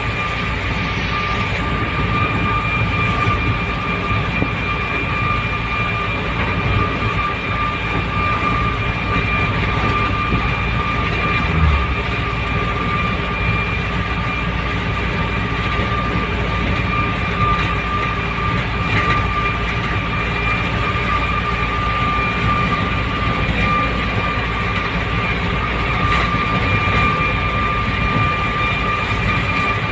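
Truck running on the road, heard from inside: a steady low engine and road rumble with a constant high-pitched whine.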